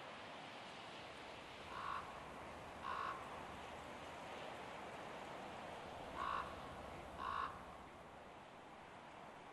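A bird calling four times, short calls in two pairs about a second apart, over a steady outdoor hiss.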